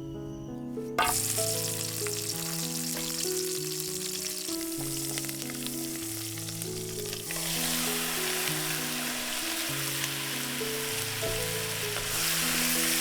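Food sizzling hard in hot oil in a pan. The sizzle starts suddenly about a second in and grows louder about halfway through, over soft background music.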